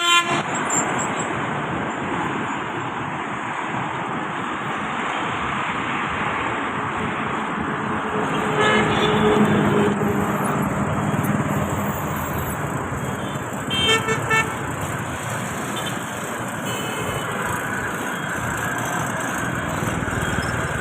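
Road traffic noise with vehicle horns honking: a steady rumble, a longer horn about nine seconds in and two short toots around fourteen seconds.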